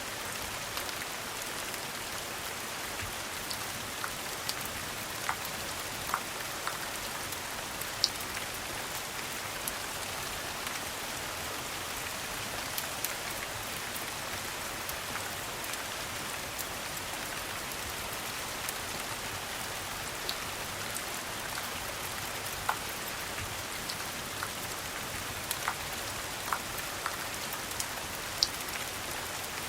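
Steady rain falling, an even hiss, with scattered sharp pops of a crackling fire, the loudest about eight seconds in and near the end.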